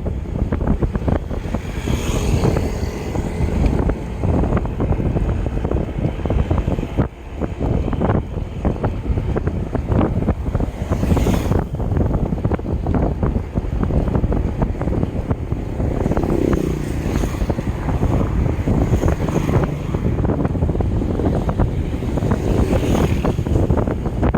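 Wind buffeting the microphone of a camera riding along on a moving bicycle: a loud, constant rumble with irregular gusts.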